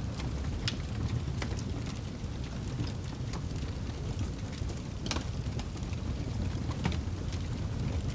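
Campfire burning: a steady low rumble of flames with scattered crackles and pops, a sharper pop about five seconds in.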